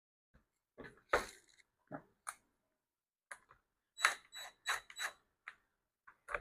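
Irregular clicks and taps of a screwdriver bit working at the screws of a plastic leaf blower housing, with a quick run of ticks about four seconds in.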